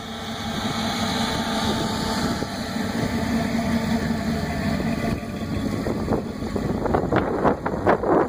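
A car engine running nearby as the car rolls along; the sound turns more uneven and pulsing about five seconds in.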